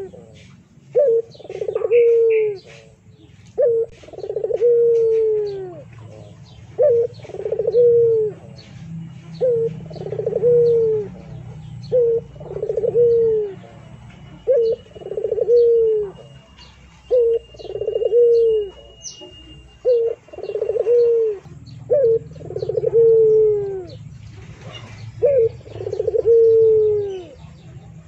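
A bird calling over and over, each call a short note followed by a longer note that falls in pitch, repeated about once a second.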